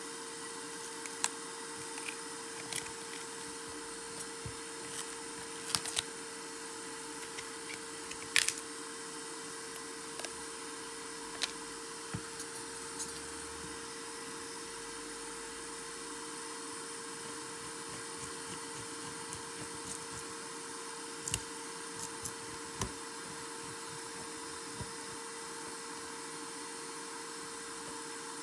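Scattered sharp clicks and taps of small tools and parts being handled while a smartphone is taken apart, over a steady electrical hum and hiss.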